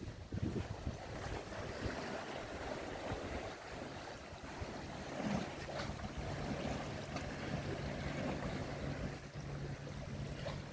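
Boat engine running under way, with water rushing past and wind buffeting the microphone. A steady low engine hum comes up about four seconds in.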